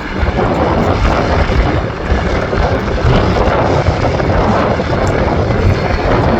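Strong wind buffeting the microphone: a loud, uneven low rumble that surges and dips with the gusts.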